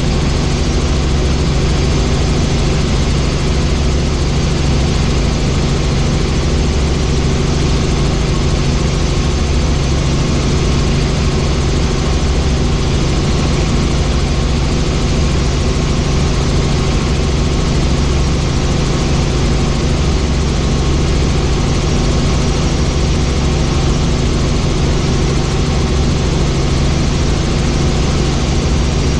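Helicopter in flight: the steady, loud drone of the engine and rotor, with several constant tones under a rushing noise and no change in pitch or level.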